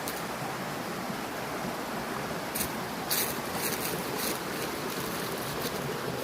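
Mountain stream flowing with a steady rush of water, with a few short, sharp clicks over it from about two and a half seconds in.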